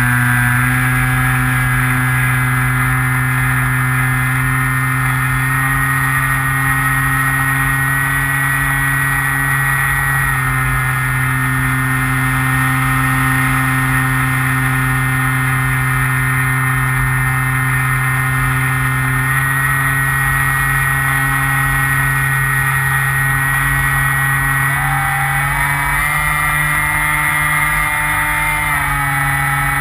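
Skywalker RC plane's electric motor and propeller running steadily, picked up on board, with the pitch stepping down and up several times as the throttle changes. A low rush of wind on the microphone runs underneath.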